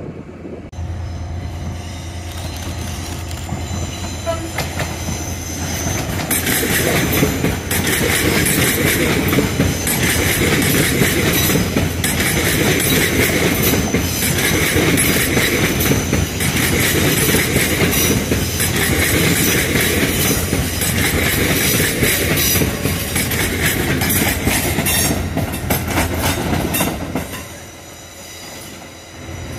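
An LNER passenger train running past close by, its wheels rumbling and clattering on the rails with a regular swell about every second and a half. The noise builds over the first few seconds and cuts off suddenly near the end.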